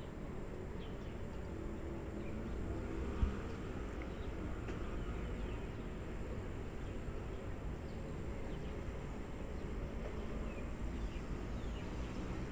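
Outdoor ambience: a steady low rumble with faint bird chirps and a thin steady high tone, with no train audible yet. A single sharp click about three seconds in.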